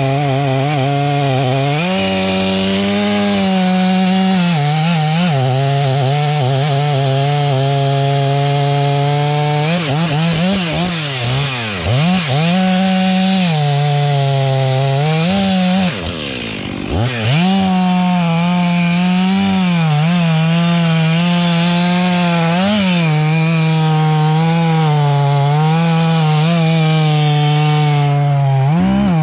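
Chainsaw running at high revs and cutting through a thick trunk, its engine note sagging and recovering as the chain bites. About ten and again about sixteen seconds in, the revs drop steeply, then climb back to full speed.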